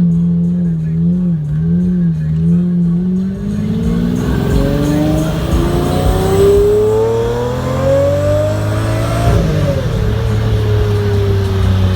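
A sports car engine with small rises and falls in revs for a few seconds, then a long, steady climb in revs for about six seconds. Around nine seconds in the revs drop sharply and settle back to a steady tone.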